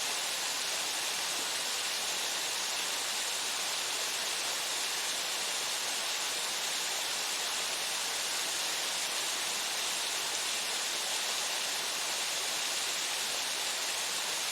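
Waterfall splashing onto rock and pool, a steady hiss of falling water with no change in level.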